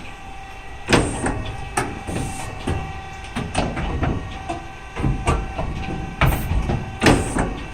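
Vollmer saw-blade top grinder running: a steady motor hum under irregular, loud mechanical clacks and knocks, about two a second, that start about a second in as the machine begins its cycle.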